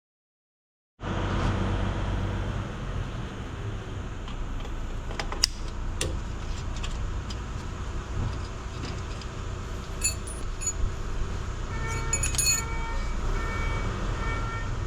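Small metal brake parts clinking and being worked with hand tools over a steady rushing background noise, with a few sharp clicks and short metallic rings near the end.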